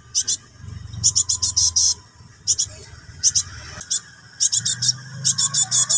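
Cinereous tit fledgling (gelatik batu) giving its harsh, rapid begging chatter to call a parent: bursts of several quick, high notes, repeated about once a second, with a faint low hum beneath.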